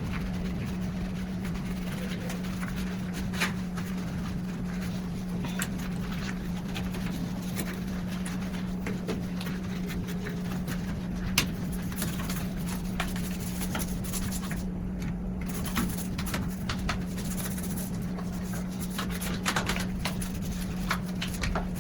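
Scattered light clicks and knocks from cleaning a kitchen stove, the loudest about halfway through, over a steady low hum.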